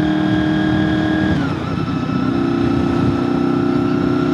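Honda VFR800FI V4 motorcycle engine running under way, with wind and road rumble. About a second and a half in, its note drops and then holds steady at a lower pitch.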